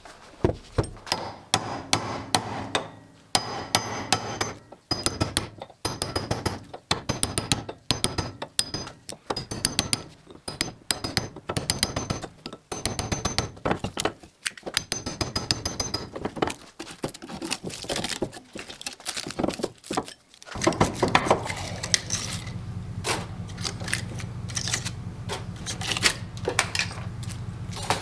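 Hand tools knocking, tapping and clinking on metal while copper is stripped out of a scrapped power-converter transformer, in quick irregular strikes. About twenty seconds in, a steady low hum starts under the knocking.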